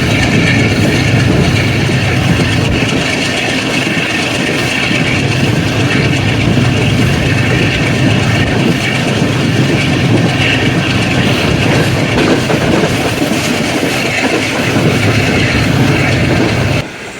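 Train running at speed heard from on board behind a Pakistan Railways AGE30 'Blue Tiger' diesel-electric locomotive: the locomotive's engine chugging under steady load over the rattle of wheels on the rails. The sound is loud and steady and drops suddenly near the end.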